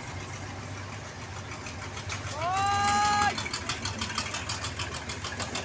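Vehicle engines running steadily with a low hum. About two seconds in, a loud pitched tone rises and then holds for about a second, followed by a run of rapid, even ticks.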